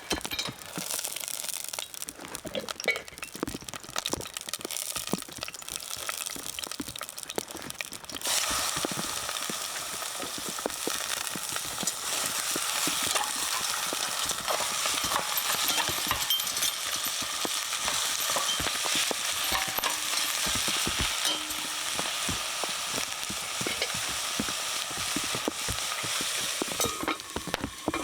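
Ground pork frying in a preheated cast-iron Dutch oven, a crackling sizzle that swells suddenly about eight seconds in and stays steady after, with scattered small clicks and scrapes of stirring.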